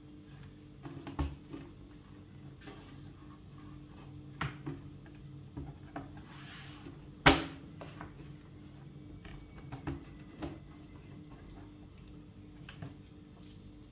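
Scattered clicks, taps and knocks from hands working on the parts of an IBM Model M keyboard, with one sharp loud click about seven seconds in, just after a brief rubbing hiss.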